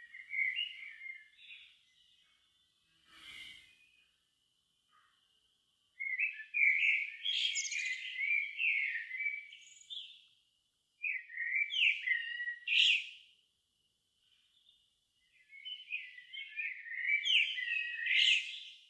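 A songbird singing at dusk in varied, warbling phrases a few seconds long, separated by short pauses, with a faint steady high note behind it.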